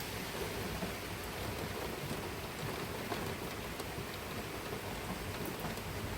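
Steady heavy rain falling: an even hiss with faint scattered drop ticks.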